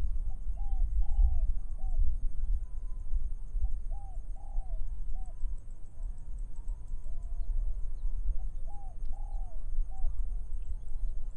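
A dove cooing in three phrases of four or five soft notes, the phrases about four seconds apart, over a steady low rumble of wind.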